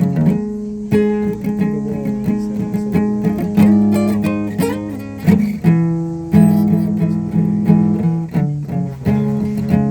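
Guitar playing chords, each struck sharply and left ringing, with a new chord about every second.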